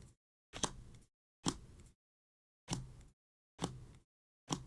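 Pokémon trading cards being flipped through one at a time: about five short, soft snaps roughly a second apart.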